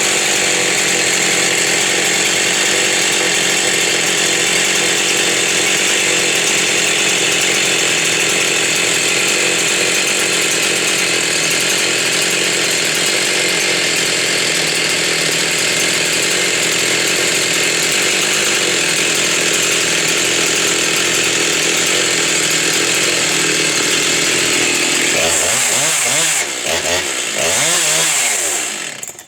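Husqvarna 385 XP's 85 cc two-stroke chainsaw engine running steadily at high revs; near the end the revs drop and rise a few times, then the sound stops.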